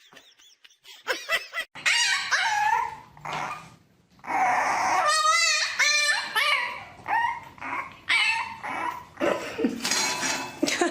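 A dog vocalizing in a series of short pitched calls, which start about a second in and pause briefly about four seconds in.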